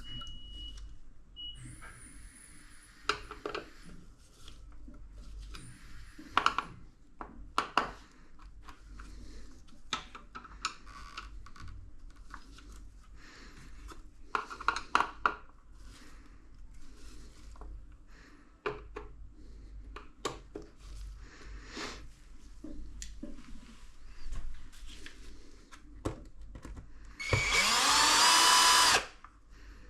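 Scattered clicks and knocks of parts being handled, then a power drill running briefly near the end, its whine rising as the motor spins up.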